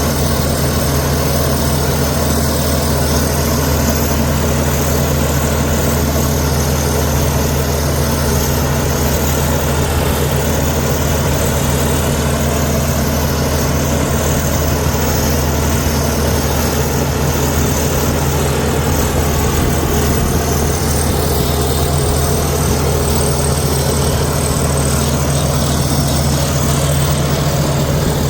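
Heavy diesel engine of earthmoving machinery running steadily at an even speed, a constant low drone.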